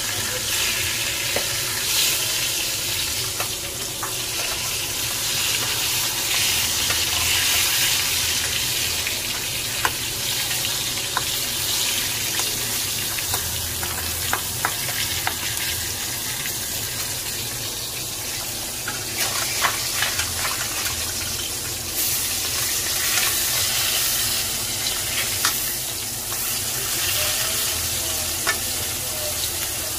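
Eggplant slices, and later stinging catfish, shallow-frying in oil in a metal kadai: a steady sizzle, with a steel spatula now and then scraping and clicking against the pan.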